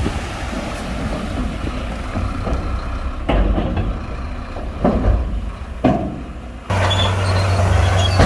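Heavy bulldozer's diesel engine running under work, with several sharp knocks. About two-thirds of the way through, the sound changes abruptly to a louder, steady engine drone.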